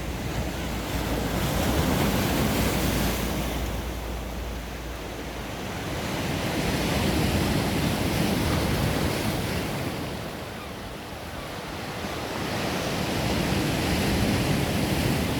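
Sea waves surging and breaking on the shore, rising and falling in loudness about every six seconds, with wind buffeting the microphone.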